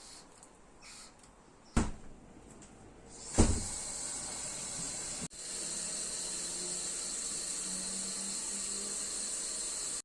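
Two sharp knocks about a second and a half apart, the second starting a steady hiss that briefly cuts out once.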